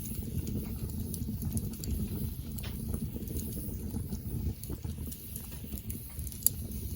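Wood campfire burning: scattered small crackles over a steady low rumble, with one sharp pop about six and a half seconds in.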